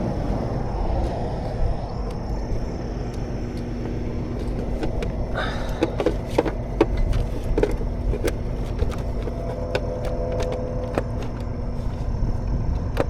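Ratchet strap being cranked to tie down a motorcycle, a run of sharp irregular clicks from about halfway through, over the steady low rumble of a running vehicle.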